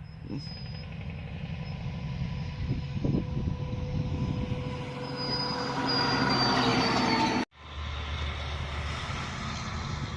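A heavy truck on the highway, its engine and tyres getting louder as it comes closer, with steady whining tones. About seven seconds in the sound cuts off abruptly and a different, lower engine sound follows.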